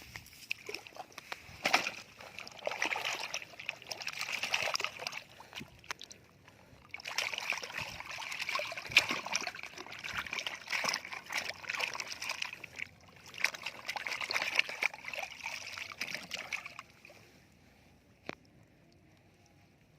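Water sloshing and splashing as plastic toys are washed in it, in three long bouts, stopping about three-quarters of the way through; a single click near the end.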